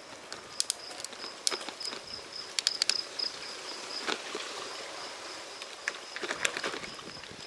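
Insect chirping in a steady high pulse, about three chirps a second, over outdoor ambience, with scattered sharp clicks and ticks in small clusters.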